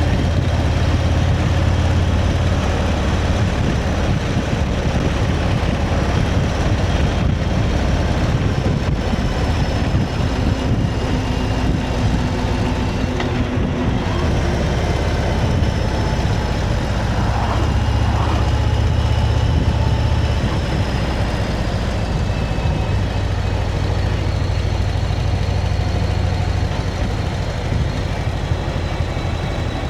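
Motorcycle engine running steadily while riding at road speed, with an even rush of wind and road noise over it.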